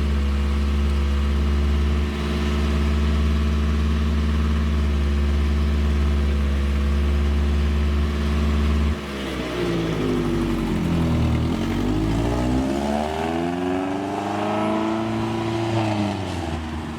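Car engine running at a high, steady idle with a large exhaust leak. About nine seconds in it drops quieter, and the revs sweep down, climb back up and fall again. The owner's idle sits around 2,500 to 3,000 rpm while the problem is still being diagnosed.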